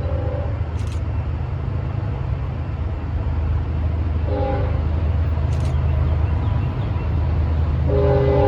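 Train horn sounding a chord of several notes in short blasts: one ending just after the start, another about four seconds in, and a longer one starting near the end. Under it is the steady low rumble of the passing train.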